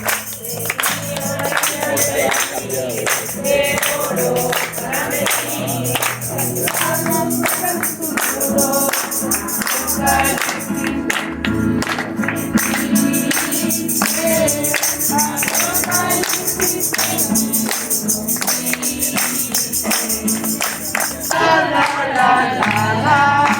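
Group singing a Spanish-language gospel song to steady tambourine shaking, with accompanying music.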